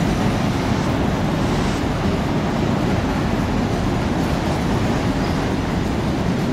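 Fairground skid ride running: a loud, steady rumble with no breaks.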